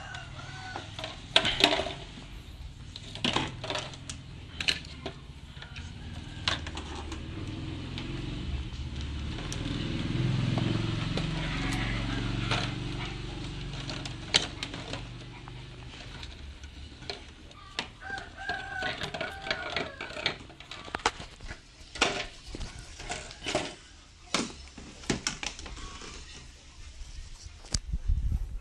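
A rooster crowing in the background, among a run of sharp clicks and knocks from handling, with a low rumble that swells and fades midway.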